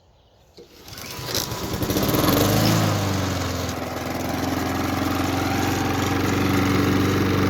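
Honda walk-behind lawn mower's single-cylinder four-stroke engine pull-started, catching on the first pull about a second in, revving up and settling into steady running. It is a cold first start of the season on fresh ethanol-free gas after dry winter storage.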